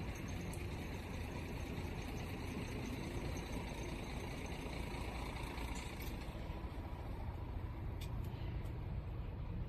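Heavy truck's diesel engine running steadily with a low rumble, with a few faint ticks about six and eight seconds in.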